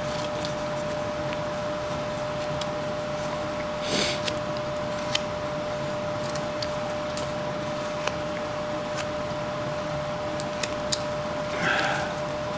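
Carving knife cutting small shavings from basswood: scattered light clicks and two brief scraping cuts, about four seconds in and near the end, over a steady hum.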